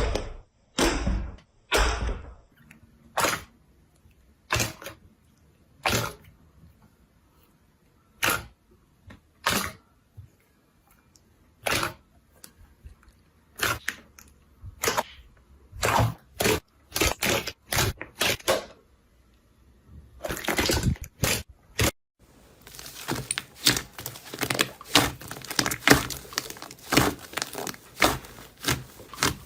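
Slime being pressed and poked close up, giving sharp separate pops about once a second, then, about two-thirds of the way through, a dense run of crackling.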